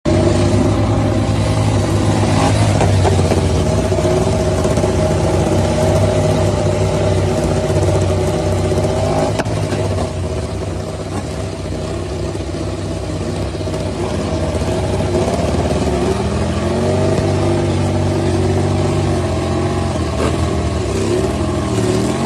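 Engine running steadily, its pitch rising and falling several times in the last few seconds as it revs.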